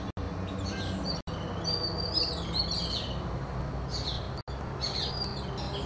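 Birds chirping in short high calls, clustered about a second and a half in and again near the end, over a steady low rumble; the sound cuts out for an instant three times.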